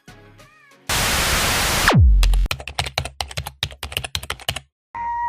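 Edited-in sound effects: a loud burst of hiss that ends in a steeply falling tone and a deep boom about two seconds in. A fast run of sharp clicks follows, then after a brief break a steady held tone starts near the end.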